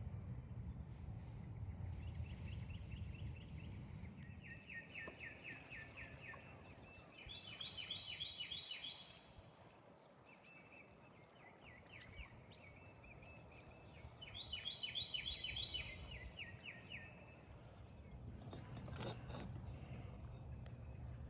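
A bird singing several quick, evenly pulsed trills, each lasting one to a few seconds, over a low outdoor rumble. A sharp click comes near the end.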